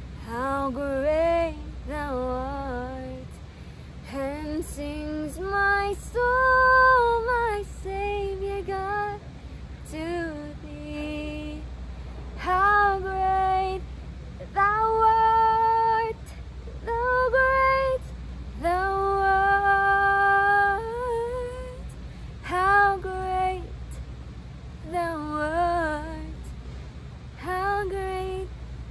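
A woman singing solo a cappella, in phrases with several long held notes.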